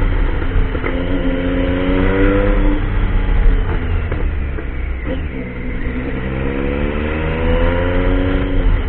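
Triumph Tiger motorcycle engine accelerating under way, its pitch climbing twice with a drop and gear change between. A heavy low rumble runs underneath, with a few scattered clicks.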